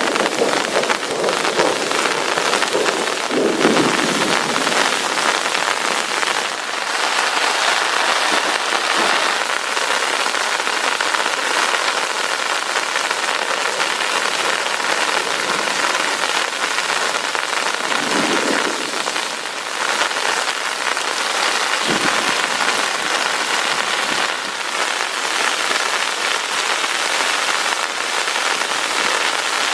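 Heavy rain falling steadily and densely, with low rumbles of thunder in the first few seconds and again about 18 seconds in.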